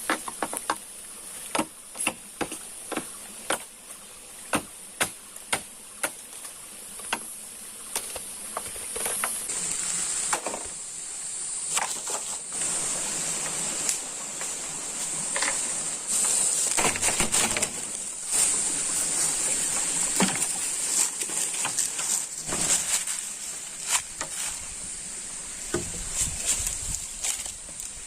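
Sharp knocks, roughly one or two a second for the first nine seconds, like work with a blade or tool in the forest, over a steady high-pitched insect drone. After that the knocks thin out and the sound becomes a rustling, shuffling haze.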